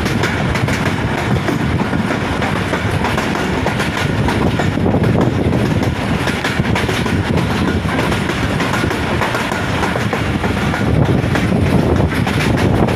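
Pakistan Railways passenger train, the Hazara Express, running at speed. A steady rumble of wheels on the rails, heard from on board.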